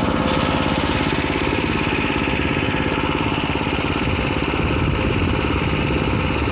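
Small minibike engine running steadily with an even, rapid firing beat.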